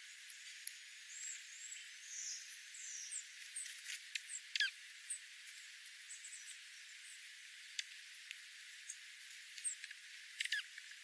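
Small wild birds giving scattered thin, high chirps and short clicks over a faint hiss, with one quick downward-sweeping call about four and a half seconds in and a cluster of clicks near the end.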